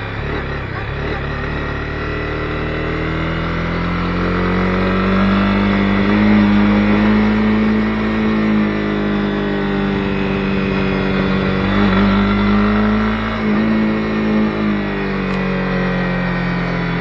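Honda CB250R single-cylinder engine running under way, its pitch rising over the first few seconds, holding, dipping briefly twice, then falling near the end.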